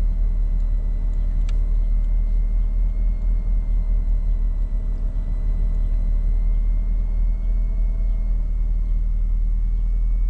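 Car engine idling: a steady low rumble with an even hum, and a single faint click about a second and a half in.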